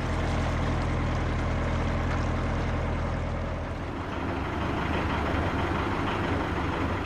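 Narrowboat engine running steadily, its sound changing about four seconds in.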